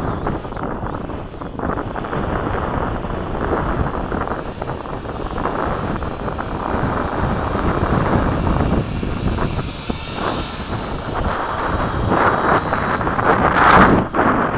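Electric RC model airplane flying, its motors and propellers giving a steady high whine that drops away after about eleven seconds. Heavy wind buffets the microphone throughout, with a loud gust near the end.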